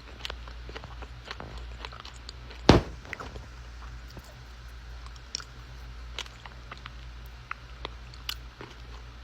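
Close-up chewing of a mouthful of edible clay, with scattered small crunches and clicks as it breaks up in the mouth, and one much louder crunch a little under three seconds in.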